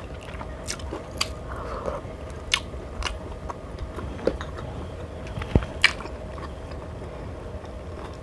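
Close-up eating sounds: chewing and small crunches of food, with scattered sharp clicks, the loudest two about five and a half seconds in, over a faint steady hum.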